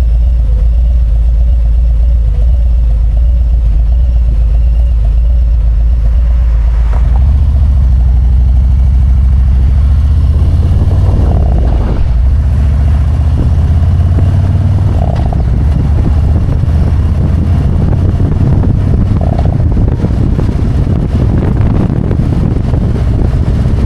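Harley-Davidson Road Glide's V-twin engine running at low speed, then pulling harder about seven to ten seconds in, with wind and road noise building over it as the bike gathers speed.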